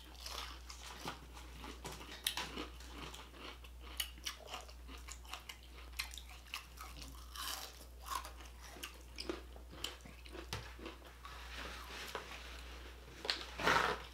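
Chewing and biting a fried Italian sausage dog in a bun: many small wet clicks and crunches, with a louder bite near the end.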